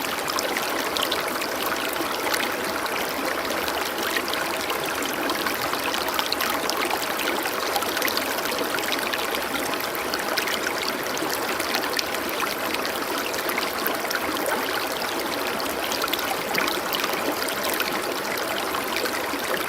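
Water running in a stream, a steady trickling and splashing with no pauses.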